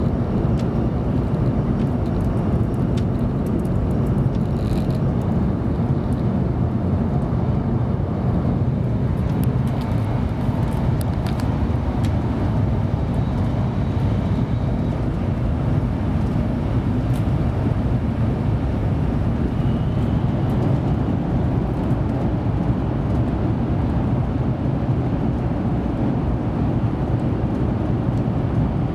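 Steady cabin noise inside a 700 series Shinkansen car running at speed: a low rumble of wheels and rushing air, with a few faint clicks in the first ten seconds.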